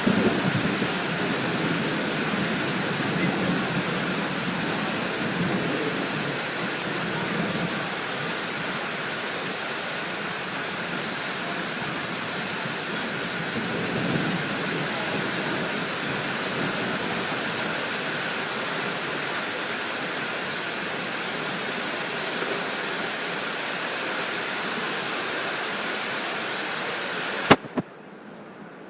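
Storm ambience: a steady rushing noise with a few low rumbles of distant thunder swelling and fading. Near the end a sharp click, and the rushing stops abruptly.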